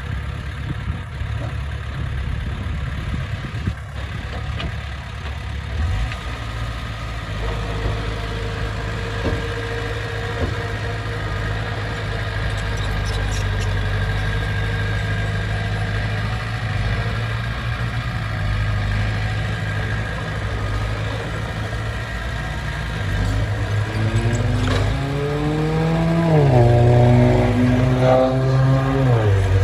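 Heavy diesel earthmoving-machine engine running steadily under work, then revving up about three-quarters of the way through, its pitch climbing and holding high for a couple of seconds before dropping back near the end.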